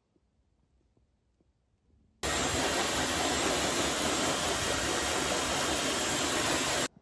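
Hair dryer blowing: a loud, steady rush of air that switches on about two seconds in and cuts off suddenly near the end.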